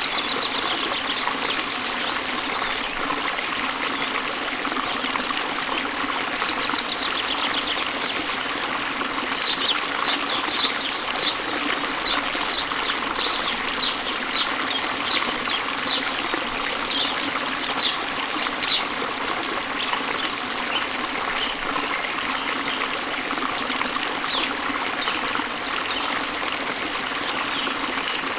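Waterfall running steadily, with small birds chirping over it; near the middle a bird gives a run of short high chirps, about two a second, for roughly ten seconds.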